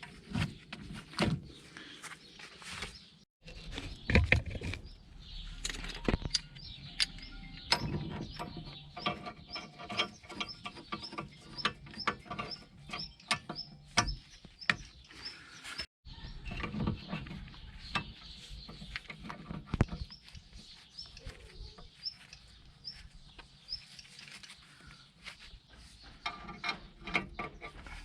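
Repeated metallic clicks and knocks of a hand-screwed bearing press being fitted and worked on the wheel bearing races of a Mercedes CLK W208 front hub, with a run of fairly regular ticking in the middle as the press is turned.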